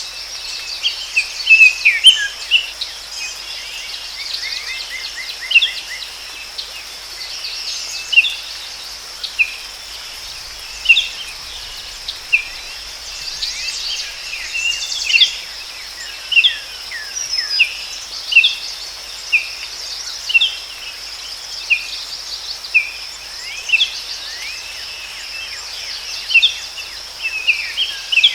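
Forest birds giving short, sharp chirps about once a second, with a brief fast trill a couple of seconds in, over a steady high-pitched insect drone.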